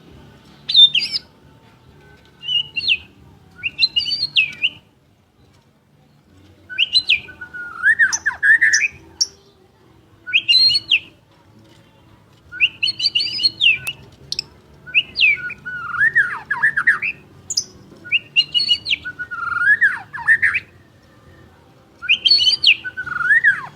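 White-rumped shama (murai batu) singing: varied phrases of sweeping whistled notes, one every two or three seconds, each about a second long.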